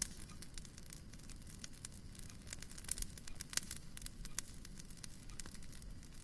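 Wood fire crackling in a fireplace: irregular sharp pops and snaps over a low steady rumble, with two louder pops around the middle.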